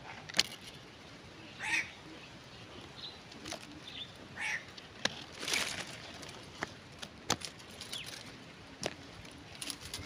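A few short bird calls, about two seconds and four and a half seconds in, among scattered sharp clicks and rustles.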